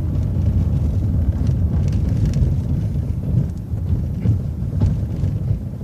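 MCO ViewMaster transit bus under way, heard on board: a steady low rumble of engine and road, with light scattered rattles.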